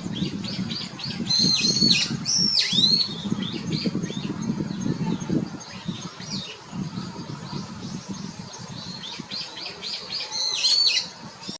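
Brown-eared bulbuls calling: shrill, swooping notes and quick runs of short sharp calls, loudest in bursts about two seconds in and again near the end, over a low rumble.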